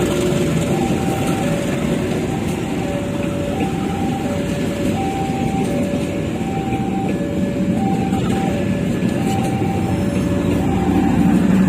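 Passenger train of economy coaches rolling slowly past close by, a steady rumble of wheels on the rails, while the level-crossing alarm sounds on: two tones, high then low, alternating about every half second. Near the end the low rumble grows louder as the train's generator car comes alongside.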